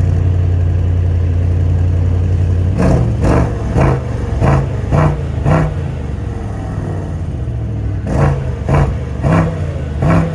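Mercedes-AMG S63 E Performance's 4.0-litre twin-turbo V8 in Sport Plus mode, idling with a steady low rumble, then revved in short quick throttle blips: six in a row, a pause of about two seconds, then four more.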